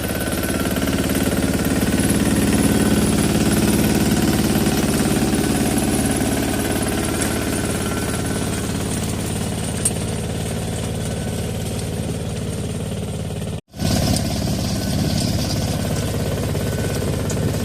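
Tractor diesel engine running steadily under load with a rotavator, a fast knocking rattle over the engine note. The sound cuts out for an instant about three-quarters of the way through.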